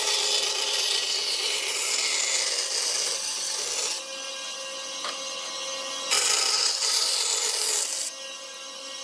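A tool working wood with a steady, gritty rasping or sawing sound. It changes abruptly twice, giving way each time to a quieter stretch with a faint steady hum.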